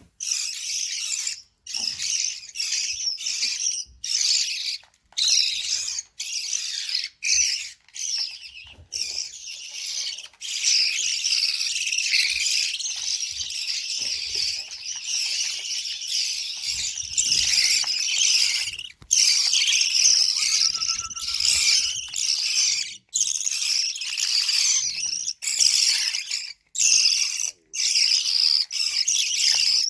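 Lovebird chicks giving a dense, high-pitched chirping and squeaking, the begging calls of chicks being fed, broken by many short silent gaps.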